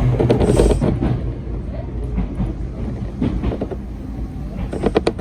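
Hakone Tozan Railway train running on the line, a low rumble of wheels on rail that is heaviest for about the first second and then eases. Sharp clicks come through, with a cluster of them near the end as the wheels pass over rail joints.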